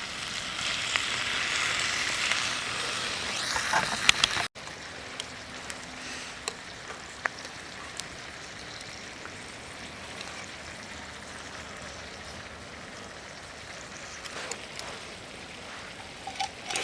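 Food sizzling as it cooks over a campfire, loud for the first four seconds or so. After a sudden cut it continues as a quieter steady sizzle with scattered small crackles and pops.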